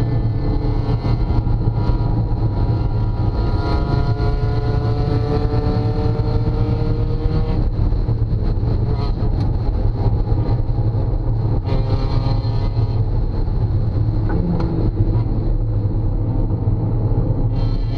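Car engine and road noise heard from inside the cabin at track speed. The engine note climbs steadily under full throttle for the first seven seconds or so, changes as the car brakes for a corner, and begins to climb again near the end.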